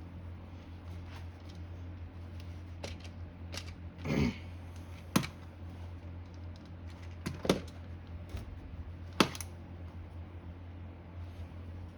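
Scattered small clicks and taps of hand tools working on the parts of a small electric motor, with a short scraping sound about four seconds in and three sharper clicks after it. A steady low hum sits underneath.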